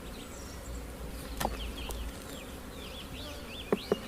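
Honey bees buzzing steadily around an opened hive, with a few light knocks partway through and near the end.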